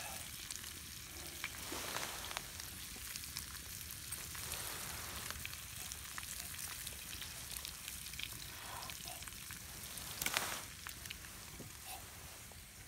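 Steak and bacon frying in a pan: a steady sizzle with scattered small pops and crackles, and one louder spurt of sizzling about ten seconds in.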